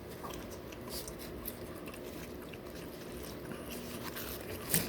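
A person chewing and biting food, with scattered soft mouth clicks and a louder smack near the end.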